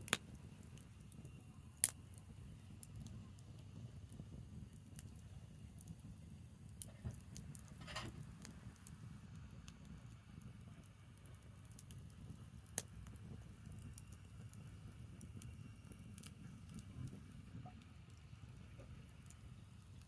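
Open fire of burning branches: a steady low rumble of flame with scattered small crackles and a few sharp pops, two loud ones in the first two seconds and another about two-thirds of the way through.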